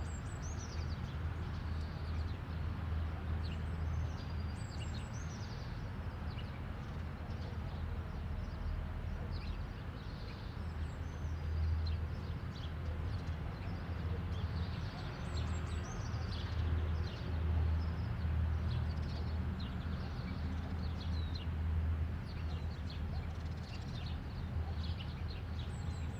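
Outdoor ambience: many small birds chirping and calling in quick high notes throughout, over a steady low rumble.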